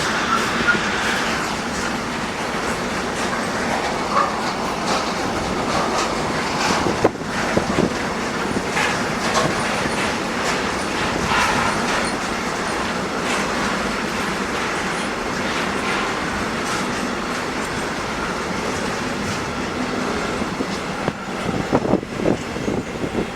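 Freight train wagons rolling past, a steady loud clatter of wheels over rail joints and points, with wheel squeal. Near the end the clatter breaks into a few separate knocks as the sound dies away.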